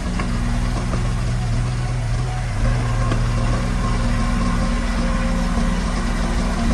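Diesel engine of heavy construction machinery running at a steady speed, a low, even hum with no change in pitch.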